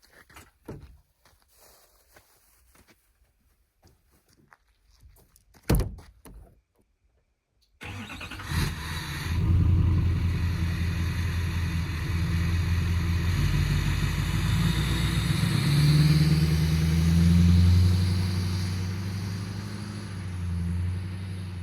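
Light scattered knocks and a single sharp door-like thunk about six seconds in, then a pickup truck's engine starts abruptly about eight seconds in and runs steadily, swelling louder a couple of times.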